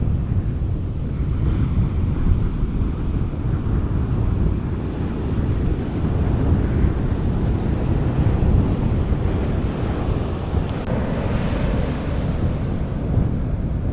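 Gentle sea waves washing onto a beach, under a steady rumble of wind on the microphone. One wave swells a little louder in the last few seconds.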